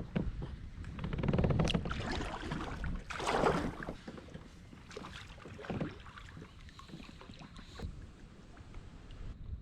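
Kayak paddle strokes splashing and dripping in the water, over low wind rumble on the microphone. Two louder strokes come in the first few seconds, followed by fainter splashes.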